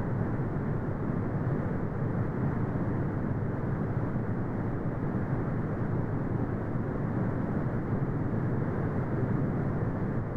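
Synthetic brown noise: a steady, deep, dull hiss with no treble, unchanging throughout.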